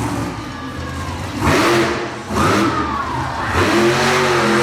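Bigfoot monster truck's engine revving hard, with its pitch swinging up and down and loud surges of throttle, about three of them.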